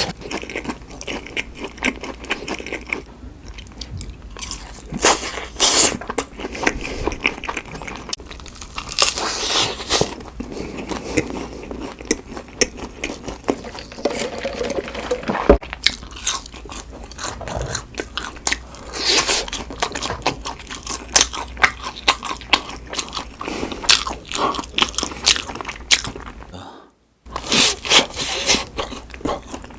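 Close-miked mukbang eating of McDonald's fast food: repeated crunchy bites and chewing in an irregular run, with a brief break near the end.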